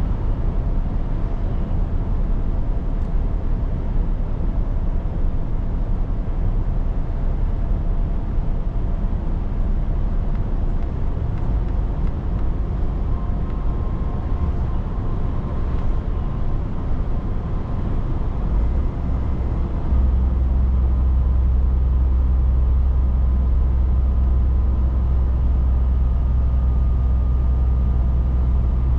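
Scania 500 S truck engine running steadily at road speed, with tyre and road rumble. About two-thirds of the way in, the deep engine drone gets louder and then holds steady.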